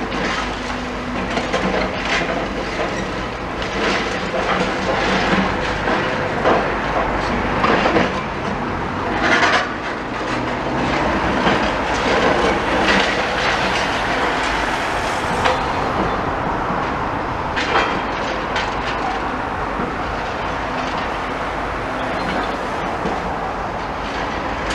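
Demolition excavator pulling a building apart: stony, metal creaks and crunches with repeated knocks of breaking masonry over the steady hum of its diesel engine.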